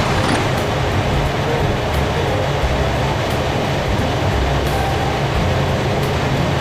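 Steady, loud jet aircraft engine noise: a low rumble under an even roar, without breaks.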